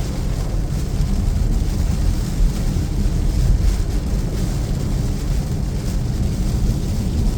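Steady low rumble of a car driving on a wet road in heavy rain, heard from inside the cabin.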